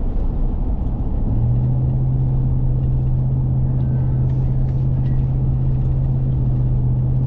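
Road and engine noise heard from inside a moving car: a steady low rumble, with a steady low drone setting in about a second in and holding.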